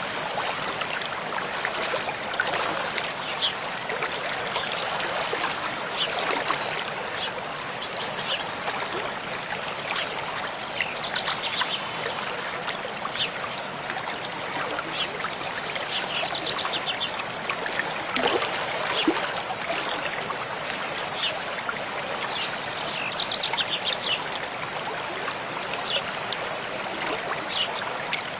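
Mountain stream flowing and splashing steadily over rocks. A songbird sings short quick phrases of rapid repeated high notes three times: about a third of the way in, just past the middle, and about three-quarters of the way through.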